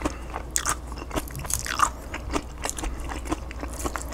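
Close-miked chewing of a mouthful of burrito bowl: irregular wet smacks and small crunches. A plastic fork scrapes around the takeout bowl as the next bite is scooped.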